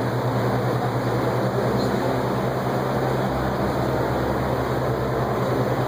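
Steady low hum under an even rushing noise: the room tone of a large exhibition hall, with air handling running.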